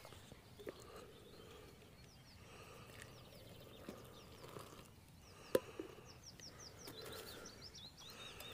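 A small bird sings two runs of quick, falling high notes, with a single sharp clink of metal camping cookware about five and a half seconds in. Hot water is poured softly from a camping pot into a metal mug.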